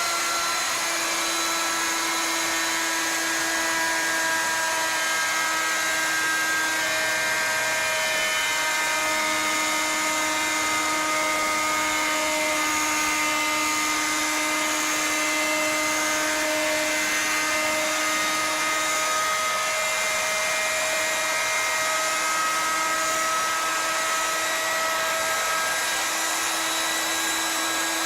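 CNC router spindle running steadily: a high whine over a constant hiss, as the machine cuts a hollow spiral in a wooden baluster.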